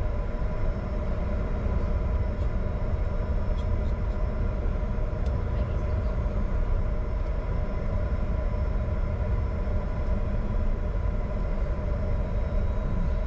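Steady cockpit noise of a Bombardier Challenger 605 on the ground, its engines running at idle: a constant low rumble with a few steady hums over it, unchanging throughout.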